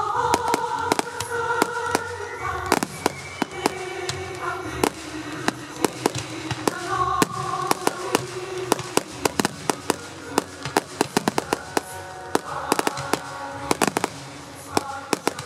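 Fireworks finale barrage: a dense run of sharp bangs and cracks, several a second, with music playing alongside.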